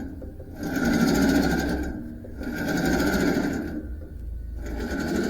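Band sawmill machinery run in three short bursts, each about a second and a half of fast clatter with a steady whine.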